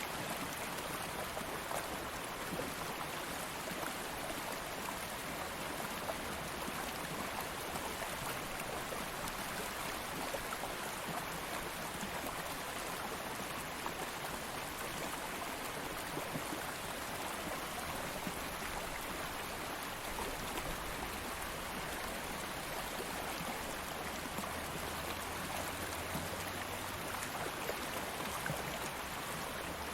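Stream of water flowing steadily over stones, a constant, even rush and babble.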